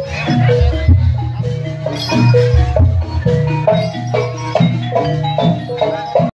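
Javanese gamelan music for a jaranan dance: metal-keyed mallet instruments play a quick, busy melody over low, heavy notes beneath. The music cuts off suddenly at the end.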